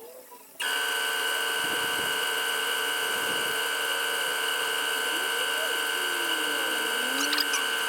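Compressed air rushing through an air chuck into a tractor tyre's inner tube, a steady hiss with a high whistle, as the tube is inflated. It starts abruptly about half a second in and holds steady.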